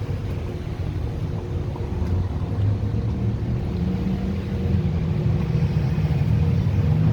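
Steady low rumble of a vehicle's engine and road noise while driving, growing slightly louder about halfway through.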